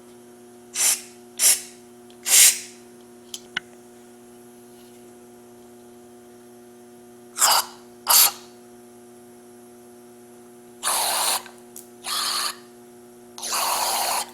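Aerosol carburetor cleaner sprayed through the carburetor's air and fuel passages in separate hissing squirts: three short ones in the first few seconds, two more around the middle, and three longer ones near the end. A steady low hum runs underneath.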